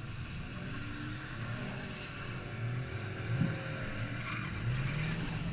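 Car engine running at a low steady idle, with two short revs about three and a half and five seconds in.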